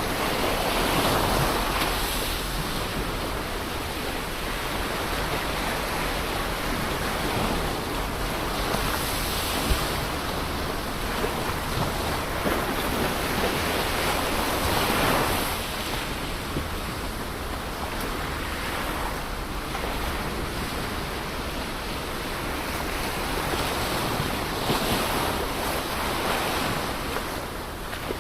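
Ocean surf: a continuous wash of waves breaking on the shore, swelling louder four times, about a second in, around nine seconds, around fifteen seconds and near the end.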